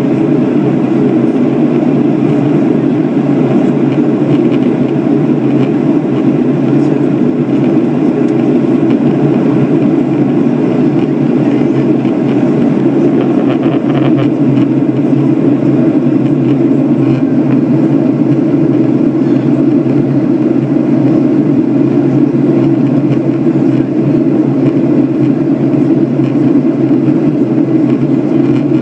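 Steady drone of a Boeing 737-800's CFM56 engines and rushing airflow heard inside the passenger cabin in flight.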